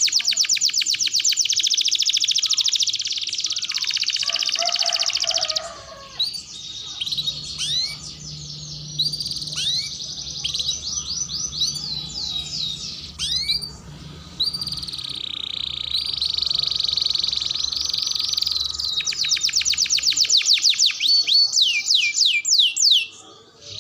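Domestic canary singing a long song: very fast rolling trills, then a run of separate up-sweeping notes with short gaps about six seconds in, then fast trilling again from about fifteen seconds on.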